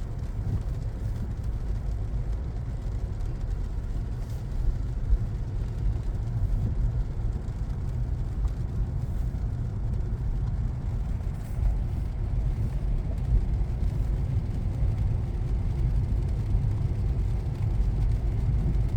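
Steady road noise inside a moving car: a low rumble of tyres and engine on a wet road.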